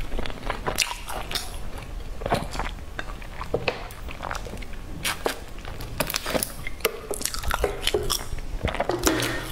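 Close-miked chewing of a soft bread roll, with wet mouth clicks and smacks. Swallows from a bottled drink come about four seconds in.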